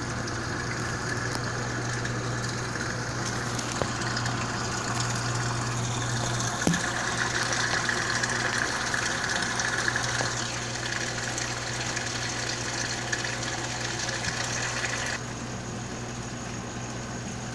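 Mabe Multipratica washing machine filling with water on its first test wash after a mechanical overhaul: a steady hum with water rushing in. A couple of seconds before the end, the rushing thins out and the sound gets quieter.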